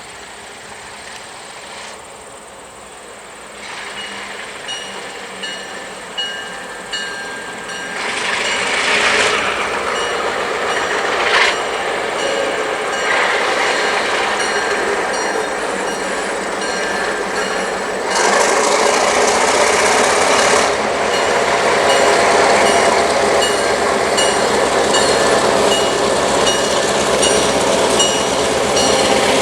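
Diesel passenger train led by an EMD F10 and an MLW RS18u locomotive approaching and running by, its engine rumble growing louder in the second half. A bell rings in a steady rhythm, and the horn sounds several blasts, the longest about two seconds, starting about eight seconds in.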